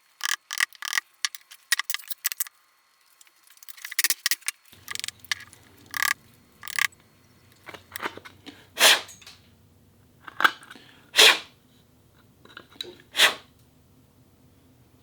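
Mallet tapping a wood chisel to chop dovetail waste down to the baseline. A quick run of light taps comes first, then scattered sharper strikes, with a few louder single blows in the second half.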